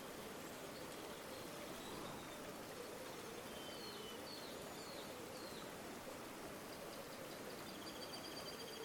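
River water flowing steadily with a gurgling burble. Faint birds call over it: a few short chirps about halfway through and a quick trill near the end.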